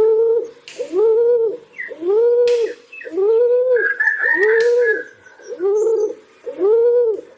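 Pigeon cooing: a run of about eight low, arched coos, each rising then falling in pitch, repeated roughly once a second.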